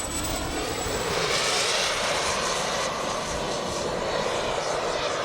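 Kingtech turbine of a 1:5 scale RC F-16 model jet running in flight: a steady rushing jet hiss that grows louder about a second in, while a thin high whine fades out.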